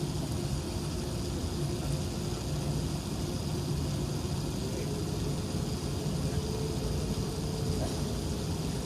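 Steady cabin noise inside an Airbus A380-861 taxiing: a low drone from its Engine Alliance GP7200 engines at taxi power over the hiss of the cabin air.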